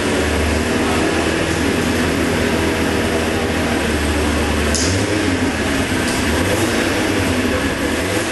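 Motorcycle engine running steadily at low revs, with an even, low note that barely changes. There is a brief click about five seconds in.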